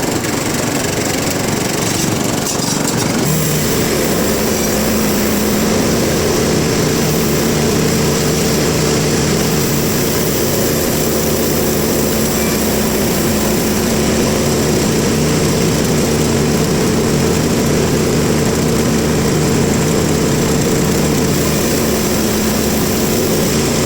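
Sawmill machinery running steadily, a loud mechanical drone with an engine-like hum.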